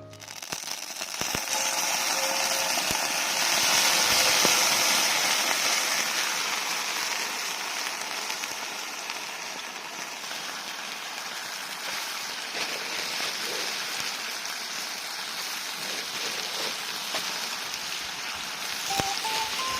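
A river running over stones, a steady rushing babble, with a few faint clicks on top.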